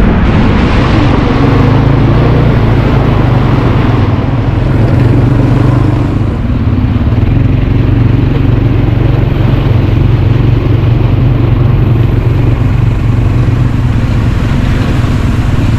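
Quad bike engine running steadily, loud and close.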